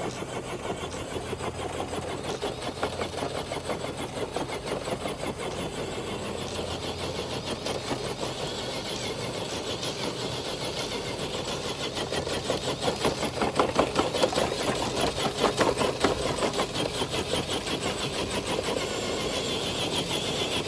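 Traxxas TRX4 RC truck pulling a weighted sled, its electric motor and gearbox running under load with a fast, buzzing rattle that grows louder partway through.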